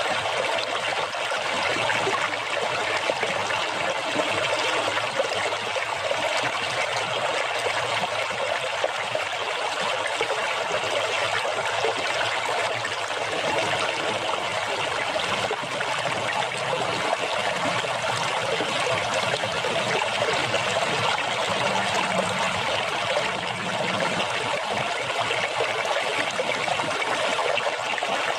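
Water splashing and trickling in a steady, unbroken flow.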